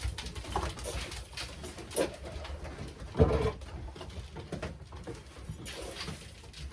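Racing pigeons cooing in a small loft, with scattered short clicks and knocks and one louder sound about three seconds in.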